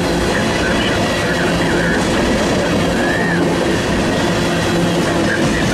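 Freight train tank cars rolling past close by: a steady, loud rumble of steel wheels on rail, with short high wheel squeals now and then.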